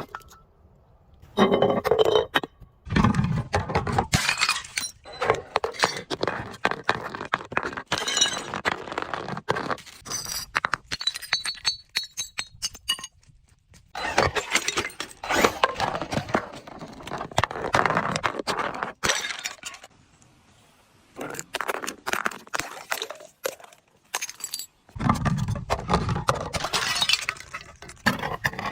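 Glass bottles breaking and being crushed: repeated crunching and cracking of glass with shards clinking, in irregular bursts separated by brief pauses, with a couple of heavier thuds.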